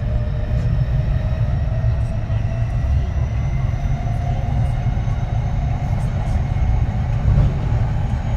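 Running sound of a Kintetsu 3220-series train: a deep, steady rumble of wheels on rail under the whine of its Hitachi IGBT VVVF inverter and traction motors, which slowly rises in pitch as the train picks up speed.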